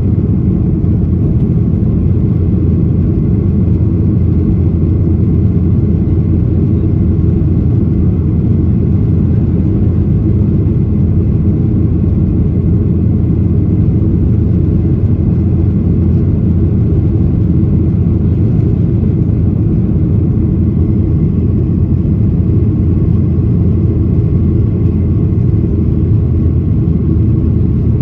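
Steady, low drone of a Boeing 737-800's CFM56-7B jet engines, heard inside the passenger cabin.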